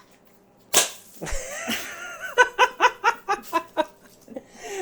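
A person laughing in a run of quick, rhythmic 'ha' pulses, after a single sharp clap-like crack about a second in.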